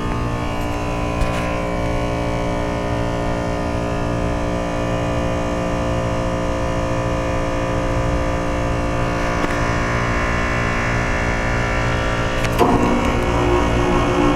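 1997 Rheem 3-ton straight-cool central air-conditioner condensing unit running, its scroll compressor giving a steady hum of several even tones over a low rumble. About three-quarters of the way through, the tone shifts suddenly and a new set of tones comes in.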